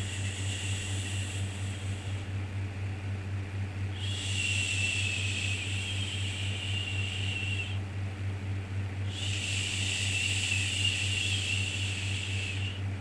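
Long 'shhh' shushing sounds for soothing a baby, repeated in a slow rhythm: each shush lasts about three and a half seconds, with a short pause between. A steady low hum runs underneath.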